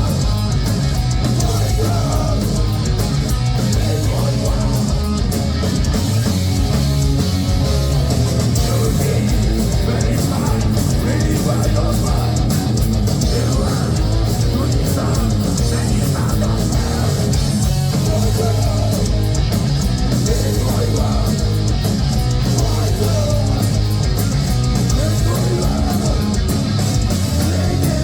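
Heavy metal band playing live, loud and unbroken, with electric guitar to the fore.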